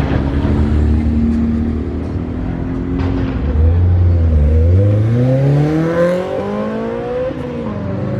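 Car engine running at a low, steady note, then accelerating hard about four seconds in, its pitch climbing for a couple of seconds.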